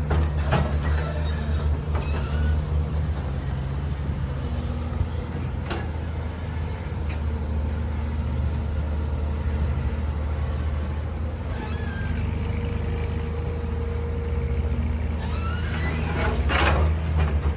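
Heavy machine's engine running steadily with a deep, even hum, punctuated by a few knocks and clanks, louder near the end.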